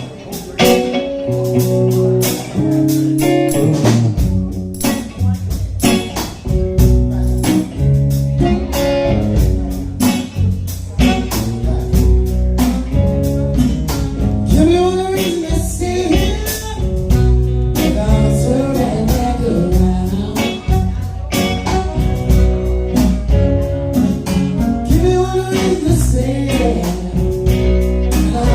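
A band playing a blues-style song with guitar and bass; the bass comes in about four seconds in, and a voice sings over it from about halfway through.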